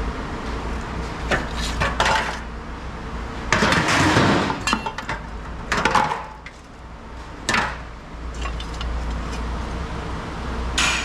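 Pieces of scrap metal clanking as they are handled and dropped: a string of separate clanks, with a longer clatter about four seconds in, over a steady low rumble.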